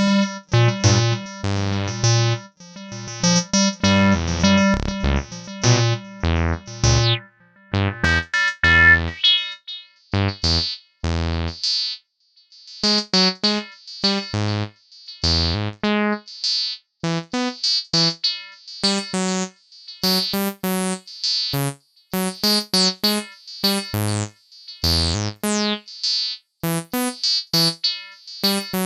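Acid synth sequence played on AcidMachine: short staccato bass-synth notes in a repeating pattern, with some deep low notes. From about two-thirds of the way in, the resonant filter opens, so each note starts with a bright falling sweep.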